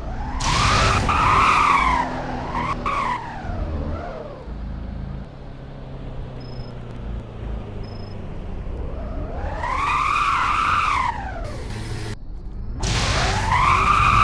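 Car tyres squealing: a pair of screeches in the first few seconds, another about ten seconds in, and one near the end, each rising and then falling in pitch, over a low engine rumble.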